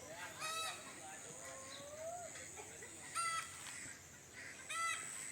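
A bird calling three times in short, loud calls: about half a second in, a little after three seconds, and near the end, with a fainter gliding call between the first two. A steady high-pitched tone runs underneath.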